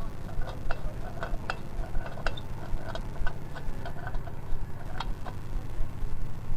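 An 18-horsepower power tiller's diesel engine running steadily with a low, even chug, with sharp irregular metallic ticks over it, a few a second.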